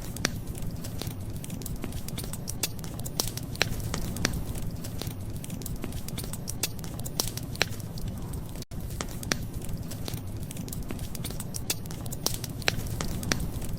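Wood fire crackling, with frequent sharp pops and snaps over a steady low rumble. The sound drops out for an instant about nine seconds in.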